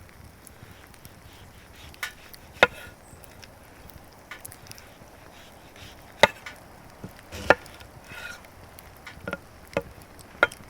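A series of sharp chopping knocks, seven or so at irregular intervals, with the loudest a little after two seconds in and twice more in the middle.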